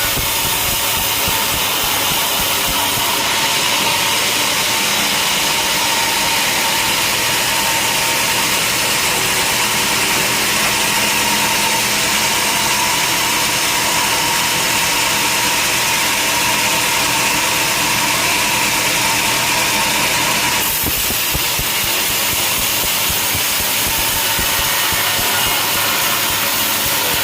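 Sawmill machinery running steadily, with an engine-like drone and a steady tone on top. The tone and the upper hiss cut off suddenly about 21 seconds in, and the machinery keeps running.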